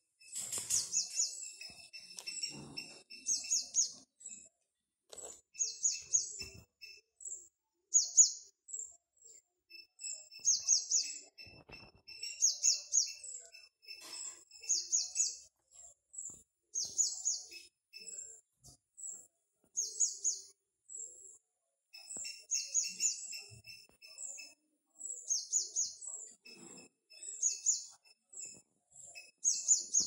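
Small bird chirping over and over: short phrases of quick, high notes every second or two, with a fainter, lower twitter between them.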